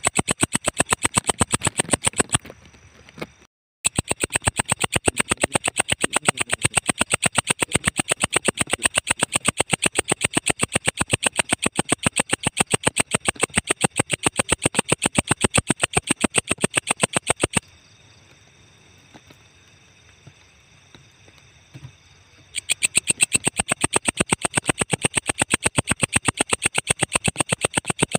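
Walang ecek insect calling: a fast, even train of dry ticks, about ten a second, over a steady high hiss. It breaks off for a moment about two and a half seconds in, stops again for about five seconds in the middle, then starts up once more.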